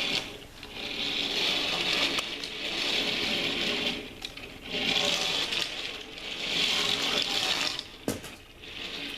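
Small plastic toy mini trains clattering and rattling as they are rummaged through and gathered up by hand, in repeated rushes of a second or two each.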